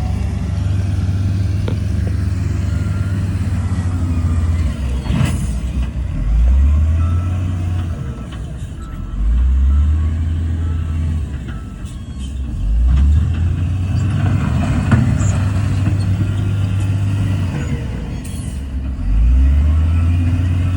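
Heavy diesel engine of earthmoving equipment running loudly, its revs climbing four times as it works under load. A sharp metallic knock comes through about five seconds in, and another near the end.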